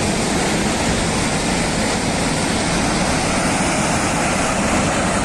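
Floodwater rushing in a torrent: a loud, steady roar of water.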